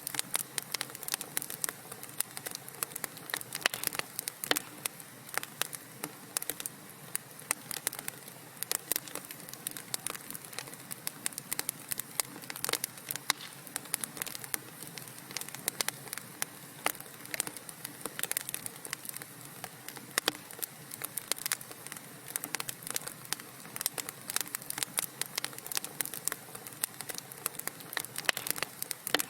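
Wood fire crackling in a fireplace: a dense, irregular run of small sharp pops and snaps over a soft steady hiss.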